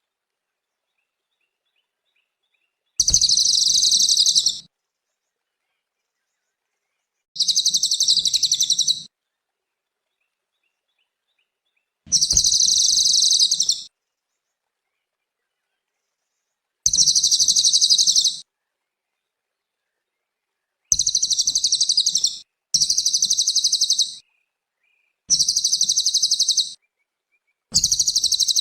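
Cililin bird singing: a high-pitched, rapid trilling phrase about a second and a half long, repeated eight times with silent gaps between, closer together near the end.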